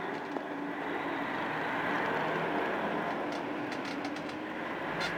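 Steady engine hum and road noise heard from inside a vehicle's cab while it drives slowly.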